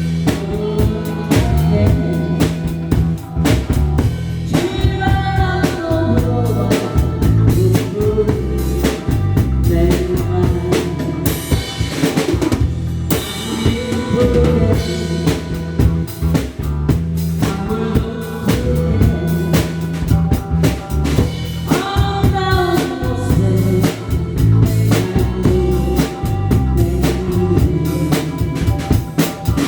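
Drum kit played live along to a song with a sung melody: steady bass drum and snare with rimshots keeping a busy beat.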